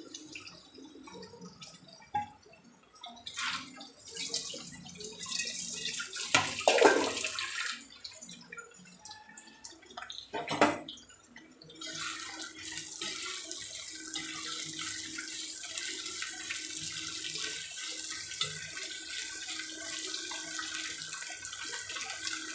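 Cauliflower florets sizzling as they fry in hot oil in a metal kadhai, with a few loud scrapes and clanks of a slotted spoon against the pan in the first half. After that the sizzle carries on steadily.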